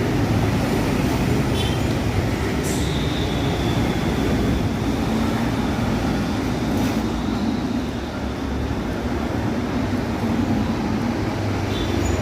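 Steady rumble of a running motor vehicle, with a faint high whine and a few light clicks over it.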